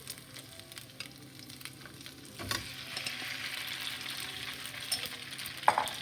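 Oil with garlic paste sizzling in a frying pan, with the small clicks of stirring. About two and a half seconds in, the sizzle jumps louder and stays up, as the cornflour-coated chicken pieces go into the hot oil. There is a sharp knock near the end.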